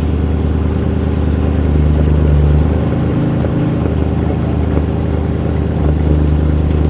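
BMW M3's V8 running at a steady, loud fast idle just after a cold start. This is the cold-start phase in which extra air is injected into the exhaust manifold to burn off pollutants and quickly heat the catalytic converters.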